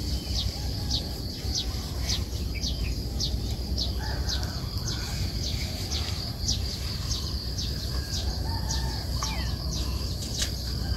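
Small birds chirping, a steady series of short, high-pitched descending notes about twice a second, over a low steady rumble.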